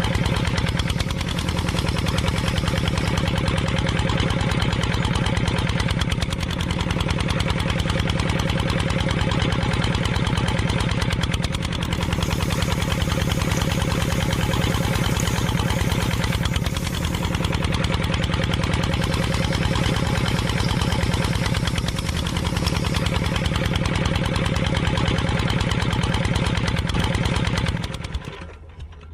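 An engine running steadily, with a slight dip in level about every five to six seconds. It cuts off suddenly near the end.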